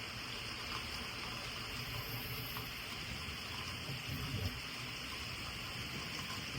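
Heavy hurricane rain pouring steadily, an even hiss, with a brief low rumble about four seconds in.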